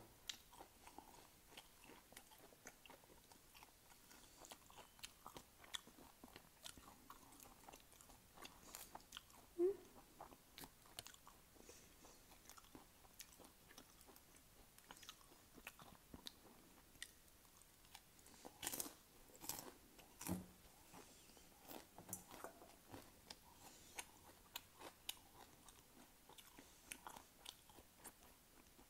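Close-up mouth sounds of potato chips being bitten and chewed: faint, crisp crunching in many small cracks, with a cluster of louder crunches about two thirds of the way through.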